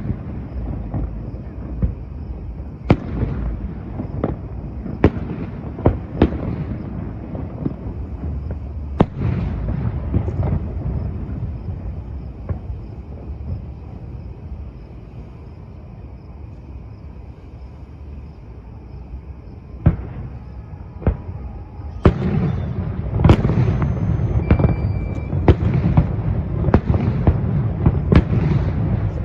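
Fireworks exploding: a string of sharp bangs over a low rumble, thinning out to a lull for several seconds in the middle, then a dense, rapid barrage of bangs and crackle over the last seven seconds.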